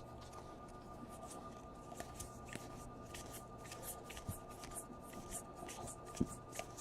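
Baseball trading cards being flipped and slid through by hand: a quick run of soft flicks and rustles over a faint steady hum.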